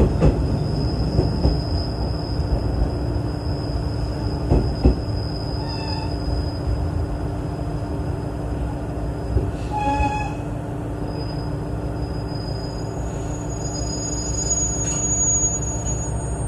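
JR East KiHa 110 series diesel railcar running, heard from inside the car: a steady low rumble with a few knocks as the wheels cross the points. A thin high-pitched squeal from the running gear is held for most of the time and climbs higher near the end as the train slows alongside the platform.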